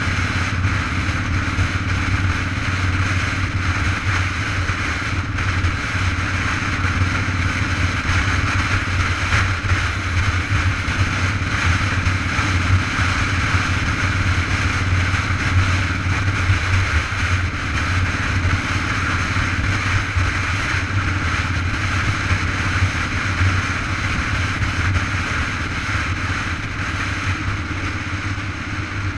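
Steady rush of wind and road noise from riding a bike, with a strong low rumble.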